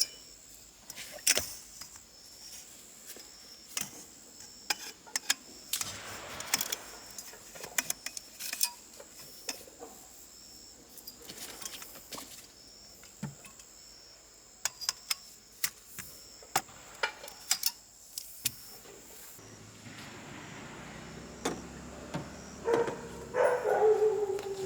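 Camping gear being handled and set up: scattered, irregular clicks, knocks and clatter, with a faint steady high-pitched hum behind and a short pitched sound near the end.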